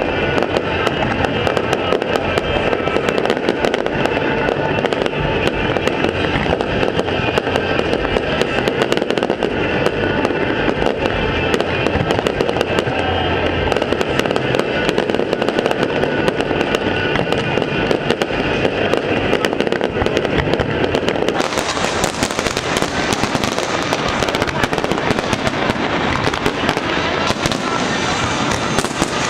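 Aerial fireworks display: a dense, continuous barrage of bangs and crackling, which turns brighter and hissier about 21 seconds in.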